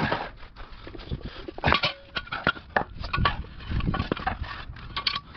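Irregular metallic clanks and knocks as a floor jack and jack stand are shifted and set under the car, with short squeaks between them and panting breaths.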